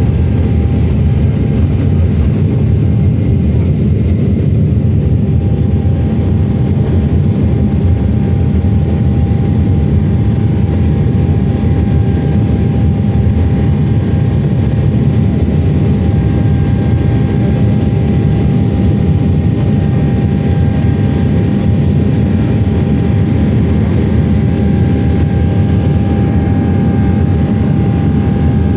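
Steady low rumble of a Boeing 777-300ER's engines and rushing air, heard inside the passenger cabin, with a thin steady whine above it.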